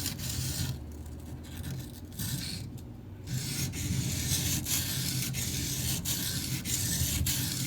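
Steel knife blade being stroked back and forth on a coarse 120-grit Shapton Pro whetstone, a rasping scrape with each stroke and two short pauses in the first half. The edge is being reprofiled by grinding metal away.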